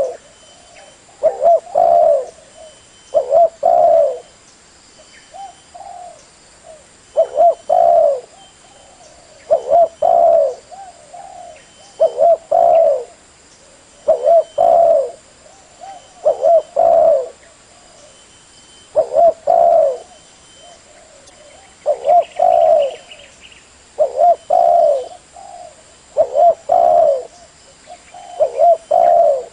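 Spotted dove cooing: a repeated phrase of a couple of short coos and a longer one, about one phrase every two to two and a half seconds.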